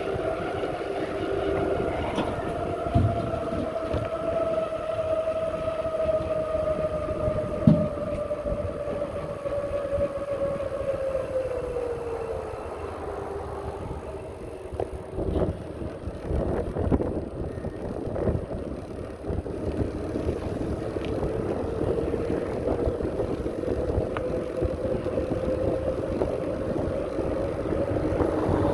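Bicycle in motion on a path: a steady whine that slowly drops in pitch as the bike slows, then climbs again as it picks up speed. Wind rumble on the microphone and a few sharp knocks from bumps run beneath it.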